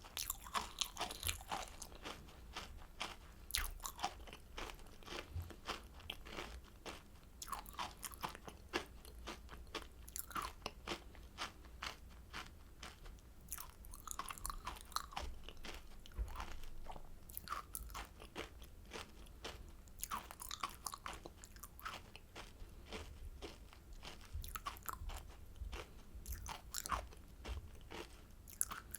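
Close-miked crunching and chewing of kohakutou, Japanese crystal jelly candy: the crisp sugar crust cracks between the teeth in many irregular sharp crunches.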